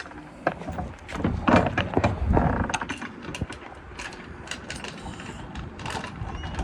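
Clicks and clanks of a metal mechanism being worked, many sharp clicks throughout, busiest in the first half.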